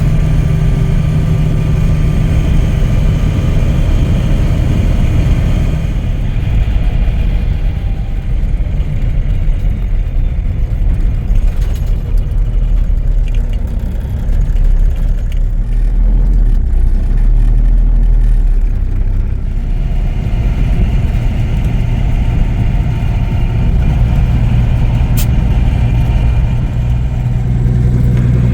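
Cummins diesel engine of a 1980s Peterbilt 359 truck running steadily while driving without a trailer. The engine note eases off for a stretch in the middle and picks up again about twenty seconds in.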